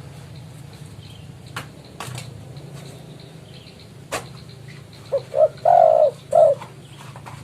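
Spotted dove (tekukur) giving one cooing phrase about five seconds in: two short notes, a long rolling coo, then a short final note. This is the territorial call to a rival. A few sharp clicks come earlier over a steady low hum.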